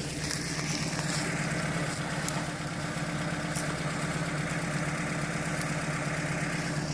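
Four-wheel-drive vehicle's engine running steadily with an even drone, and a rushing noise over it that stops near the end.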